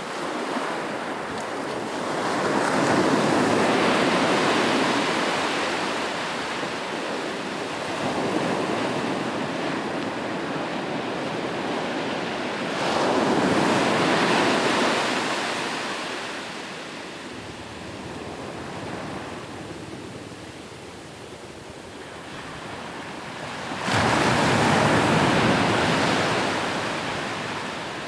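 Ocean waves breaking on a shore, the surf swelling and ebbing in slow surges about ten seconds apart, the last one arriving suddenly near the end, with some wind on the microphone.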